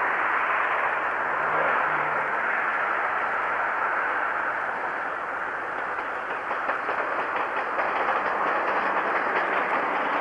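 A railway train running, a steady rushing rumble, with faint rapid clatter of wheels coming in over the second half.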